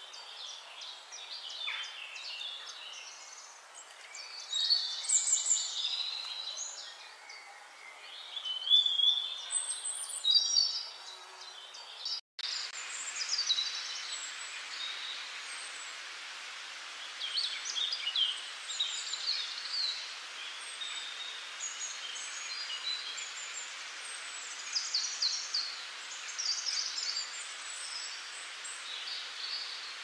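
Small wild birds chirping and calling in quick, repeated phrases. The sound breaks off for an instant about twelve seconds in, and afterwards a steady hiss sits under the bird calls.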